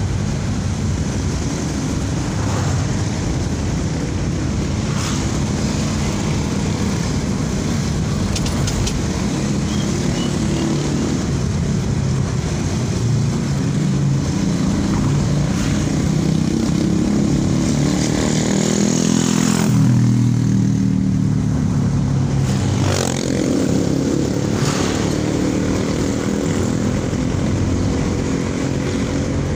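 Daihatsu Ayla's 1.0-litre three-cylinder engine and road noise heard from inside the cabin while driving, the engine note rising and falling with speed.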